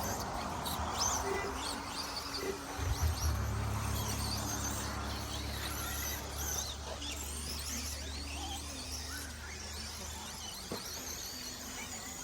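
Electric motors of 1/10-scale short course RC trucks whining as they race, many short rising and falling whines as the trucks accelerate and brake, with a steady low hum from about three to nine seconds in.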